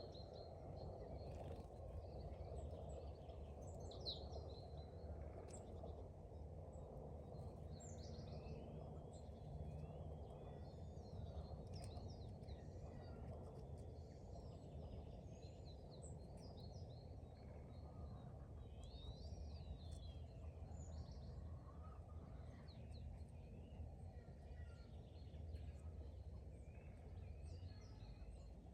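Faint songbirds chirping and calling throughout, over a steady low background rumble.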